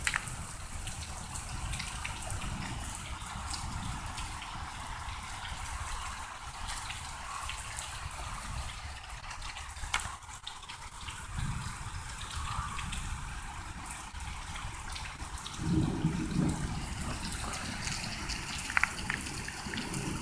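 Rain dripping and trickling water, with a steady low rumble of distant rolling thunder underneath that swells louder about 16 seconds in.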